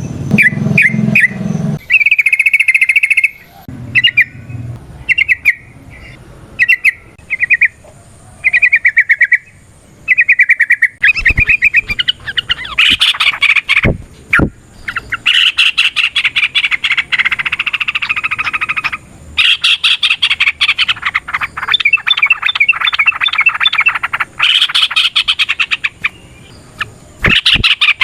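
Yellow-vented bulbul (trucukan) singing: first short separate phrases, then from about a third of the way in long rapid runs of notes, the fast 'ropel' song.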